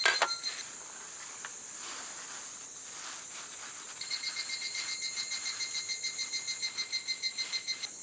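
Insects chirping steadily in the evening, with a second insect's rapid pulsing call, about five pulses a second, joining about halfway through and stopping suddenly near the end. A brief clatter of metal cookware at the very start.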